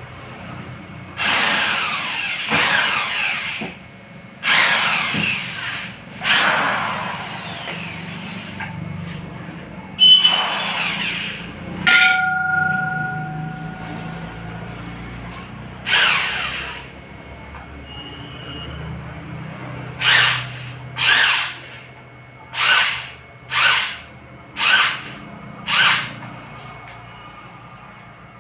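A hand tool rubbing over a hard surface in repeated rough strokes, as when working on a loudspeaker's magnet assembly. There are several long strokes, a brief metallic ring about twelve seconds in, and six quick short strokes near the end.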